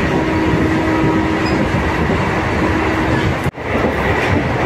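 Inside a moving MEMU electric train coach: the steady running rumble of the carriage on the rails, with a steady hum through it. The noise drops out for an instant about three and a half seconds in, then carries on.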